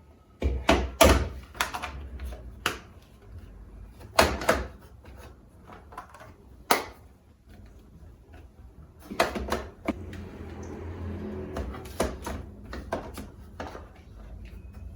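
Household items and containers knocking and clattering as they are handled and set down, with a few seconds of steady soft rubbing or hissing about ten seconds in.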